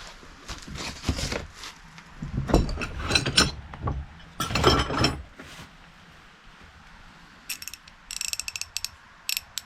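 Metal hand tools clanking and knocking against each other as they are handled, then rapid runs of sharp clicks from a ratchet near the end.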